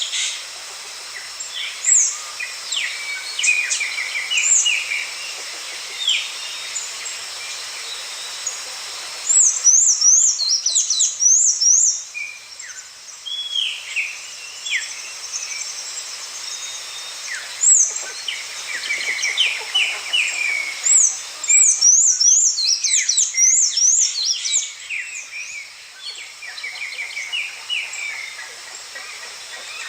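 Several birds singing and calling together: short chirps and whistled notes throughout, with two bouts of rapid, looping high-pitched phrases, one about a third of the way in and one about two thirds in, over a steady background hiss.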